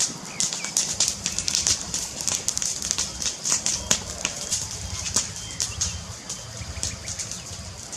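Wood fire crackling in a fireplace: a dense run of irregular sharp pops and snaps over a low, steady rumble of flames.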